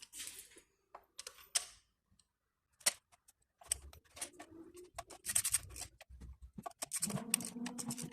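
Metal hand tools clicking and clattering as a spark plug socket and extension bar are fitted together: a few sharp separate clicks, then a denser run of clicking and rattling from about halfway through.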